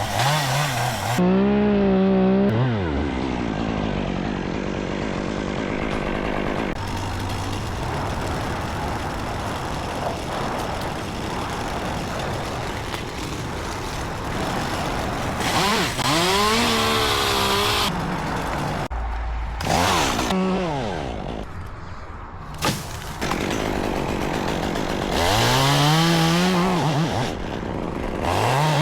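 Chainsaw running steadily, revved up and down several times, each rev rising and then falling in pitch, as it cuts tree limbs.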